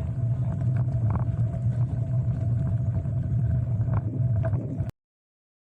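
Steady low rumble of a moving bicycle ride, wind on the microphone and tyre and road noise, with a faint steady tone and a few light clicks. It cuts off suddenly about five seconds in.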